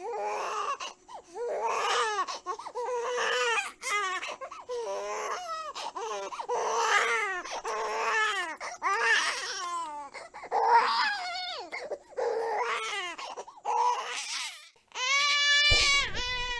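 An infant crying in repeated wailing bouts about a second long, each falling in pitch, with short catches of breath between. Near the end a different, steadier cry takes over.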